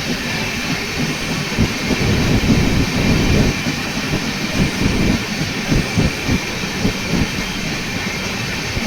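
Passenger train running on the rails: a steady rumble with irregular knocks and rattles from wheels over the track.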